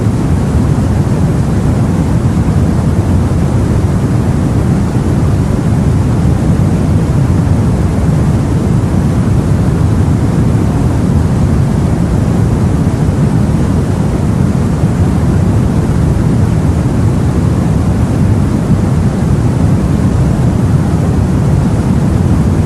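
Steady, deep rumble of sea and wind noise, even and unchanging, with no distinct waves or gusts standing out.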